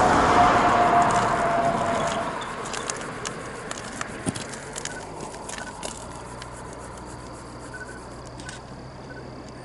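A train's loud rumble, with a held tone that slides slightly down, fades away over the first two seconds. After that, insects call steadily, along with scattered sharp clicks.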